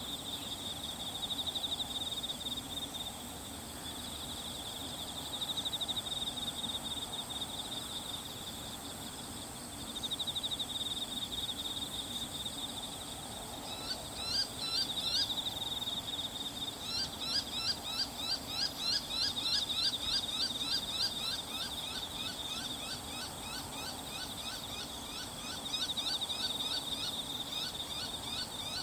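Bull-headed shrike calling a rapid series of short, falling notes, about two to three a second, starting about halfway through. Under it runs a steady, high insect chorus.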